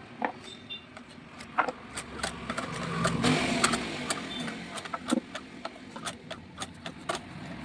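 Sewing machine being worked on, giving irregular clicks and knocks, with a brief stretch of steadier running noise about three seconds in.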